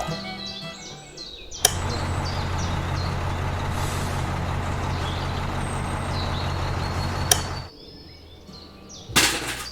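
A vehicle engine runs steadily for about six seconds, starting and stopping with a click, between short stretches of background music. A brief loud hiss comes near the end.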